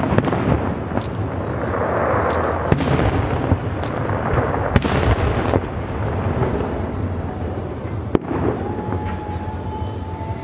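Fireworks going off: a run of sharp bangs with crackling between them, and a long steady whistle near the end.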